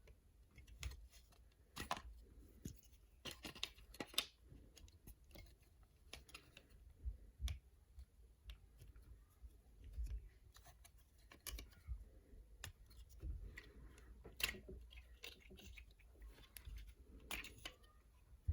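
Irregular small plastic clicks, taps and light rubbing as a Transformers action figure is handled and manipulated by hand.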